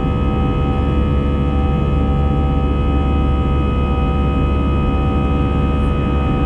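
Steady cabin drone of an Airbus A320-214's CFM56 jet engines at climb power shortly after takeoff: a deep rumble with several steady whining tones over it.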